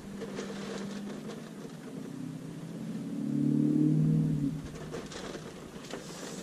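Low, steady engine drone of a Dodge Charger Scat Pack's 392 Hemi V8, heard from inside the cabin, swelling louder for a couple of seconds in the middle before settling back.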